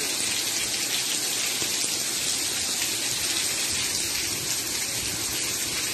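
Rain falling steadily on a street, an even hiss of drops with no breaks.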